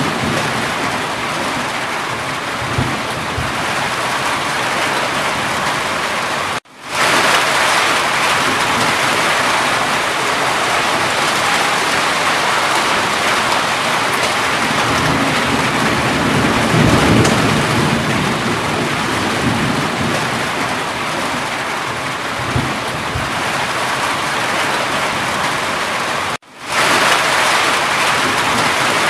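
Steady heavy rain, a dense even hiss, with a low rumble of distant thunder swelling about halfway through. The sound cuts out briefly twice, about a quarter of the way in and near the end, and fades straight back in.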